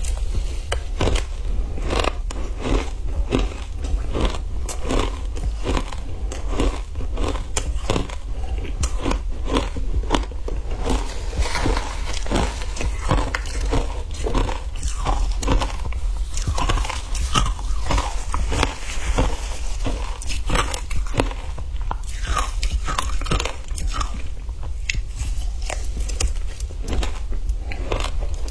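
Close-up crunching and chewing of ice: repeated irregular bites and crunches, several a second, with a steady low hum underneath.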